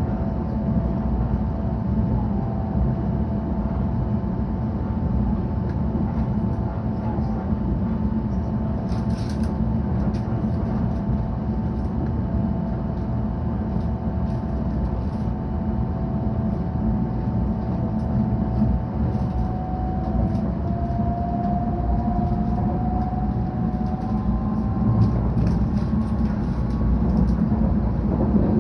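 Steady running noise of a 700 series Shinkansen heard inside the passenger car: a deep rumble with thin whining tones above it, one of which rises briefly about two-thirds of the way through.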